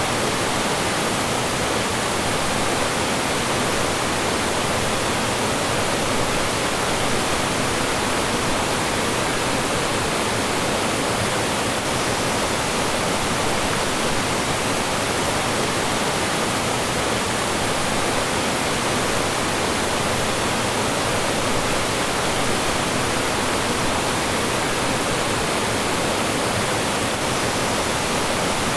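Mountain stream rushing over rocks and small falls: a steady, loud wash of moving water with no breaks.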